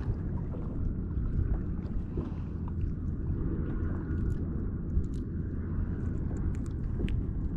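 Steady low rumble of wind and water around a fishing kayak moving at trolling pace, with a few faint clicks.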